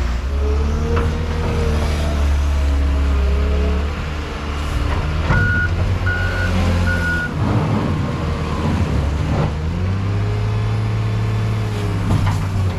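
A heavy vehicle's engine running and changing speed, rising and falling in pitch. About five seconds in, a backup alarm gives three short beeps.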